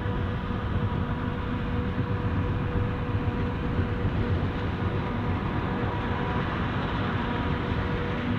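Heavy farm machinery at a maize silage harvest running steadily: a continuous low rumble with a constant high whine over it.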